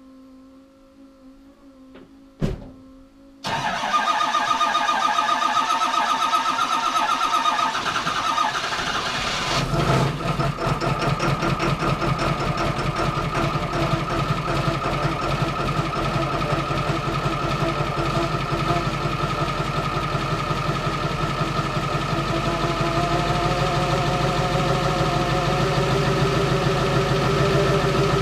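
A Ford 7.3 Power Stroke turbo-diesel V8 cold-started in freezing weather after sitting a week: a sharp click, then the engine cranks and fires about three and a half seconds in and runs loudly. About ten seconds in its sound shifts and it settles into a steady, rapidly pulsing diesel idle.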